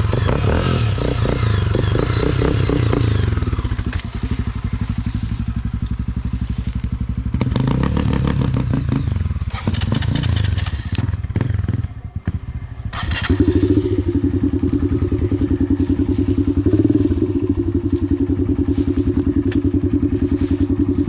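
Dirt bike engine running while the bike is ridden over rough trail, its revs rising and falling through the first half. About twelve seconds in the engine briefly drops away amid a few knocks, then holds at a steady pitch.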